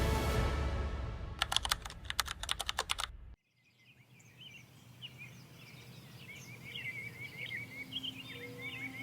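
Music fading out, then a quick run of sharp clicks, about eight a second for under two seconds, that stops with an abrupt cut. Birds then chirp, faint at first and growing louder.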